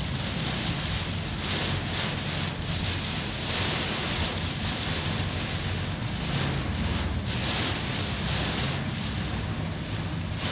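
Heavy rain pelting a car's roof and windscreen, heard from inside the cabin, steady throughout over the low rumble of the moving car.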